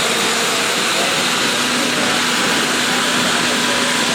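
Geared steam locomotive venting steam: a loud, steady hiss with a faint low hum under it.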